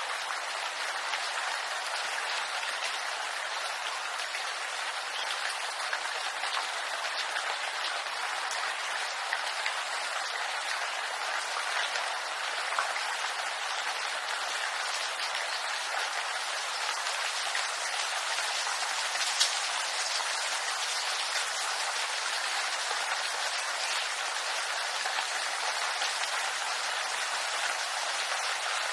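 Steady rain falling on bamboo leaves: a dense, even patter of drops, with one sharper drop hit about two-thirds of the way through.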